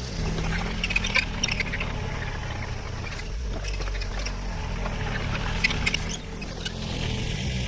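Komatsu mini excavator's engine running steadily while spreading crushed concrete, with scattered clinks and rattles of the rubble, in clusters about a second in and again near six seconds.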